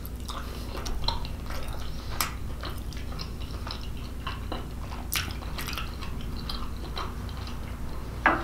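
A person chewing a mouthful of sausage lasagna, with many small, quick mouth clicks scattered throughout.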